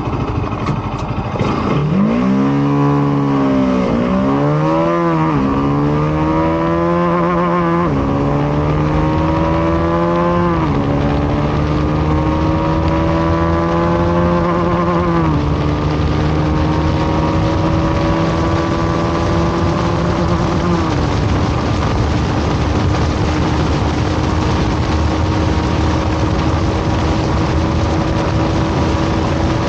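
Bajaj Pulsar RS200's 200 cc single-cylinder engine accelerating hard at full throttle. It climbs in pitch through each gear, drops sharply at each upshift, about five times, and the rises grow longer, then it holds a steady high pitch near top speed with rising wind rush.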